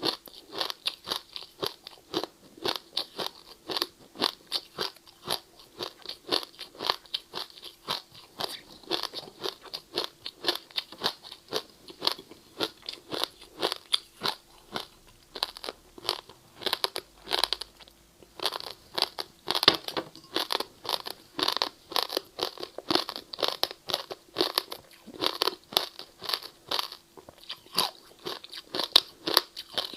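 Ice being chewed in the mouth: steady, rapid crunching, a few crunches a second, close to the microphone.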